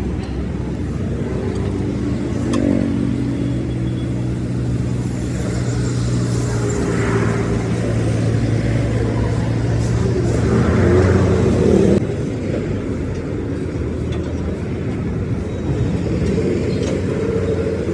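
A vehicle engine running steadily amid road traffic, its low hum easing off sharply about two-thirds of the way through.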